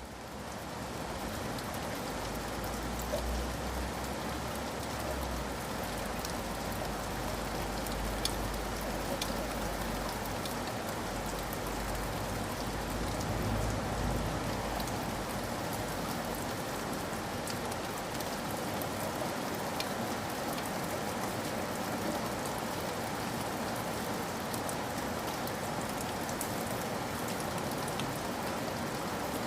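Steady rain falling on a surface, with scattered sharper drop ticks, fading up just as it begins and then holding at an even level. A low rumble sits under it through roughly the first half.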